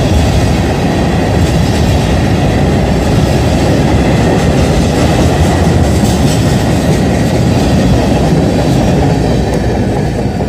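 Kansas City Southern freight cars rolling past on the rails, a loud steady rumble of wheels on track that begins to fade near the end.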